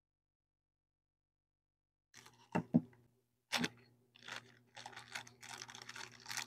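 Dead silence for about two seconds, then small sharp clicks and taps with rustling as small plastic pieces and packaging are handled, over a faint steady low hum.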